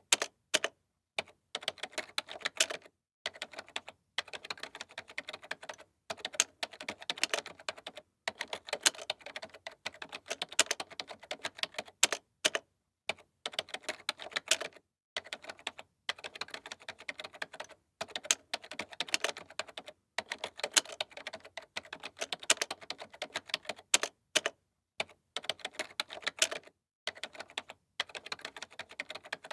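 Typing on a computer keyboard: rapid runs of key clicks, broken by short pauses every second or two.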